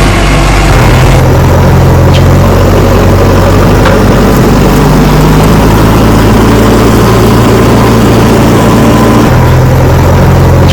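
Heavy engine running at a steady idle, a loud low hum whose tone shifts abruptly about a second in and again near the end.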